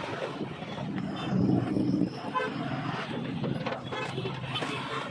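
Road traffic running by, with vehicle horns honking several times in short blasts.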